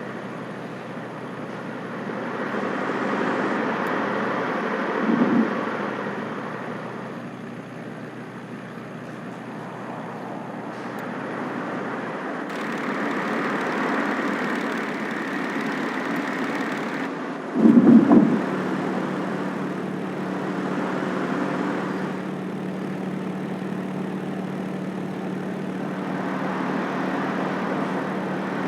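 Nissan Skyline engine running on the move, its hum swelling and easing as the speed changes, with two short loud bursts about five seconds in and again about eighteen seconds in.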